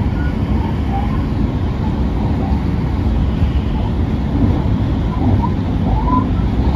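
Passenger train running at speed, heard from inside the carriage: a steady low rumble of wheels on rail.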